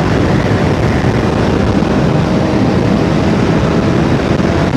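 Sport motorcycle with its exhaust baffle removed, running steadily on the road, heard from the rider's helmet camera as a loud, dense rumble.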